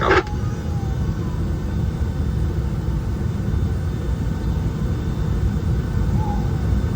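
Steady low rumble of a Boeing 757-200's engines and airflow, heard inside the passenger cabin.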